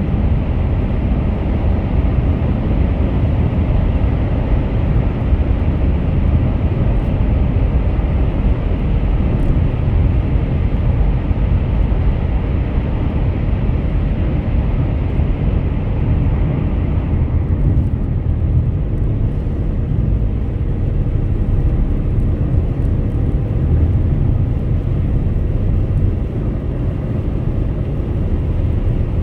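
Car travelling at highway speed: steady road and tyre noise over a low engine rumble. About seventeen seconds in, the higher hiss drops off and the sound becomes duller.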